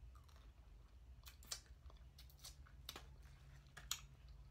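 A person chewing food close to the microphone, with a series of short crisp crunches.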